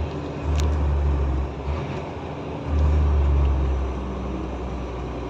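Truck's diesel engine heard from inside the cab: a steady low drone that swells louder twice.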